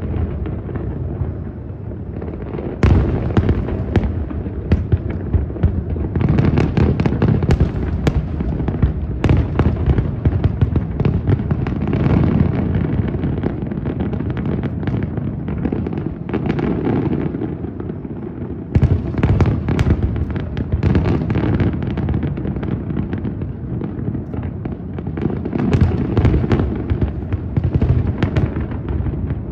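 Aerial fireworks shells bursting in dense, continuous succession, the booms overlapping with no pause between them.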